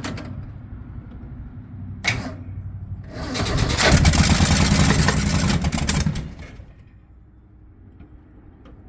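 1965 Mustang engine, running rough, dies. A sharp pop comes about two seconds in. Then the engine fires up again for about three seconds and cuts out.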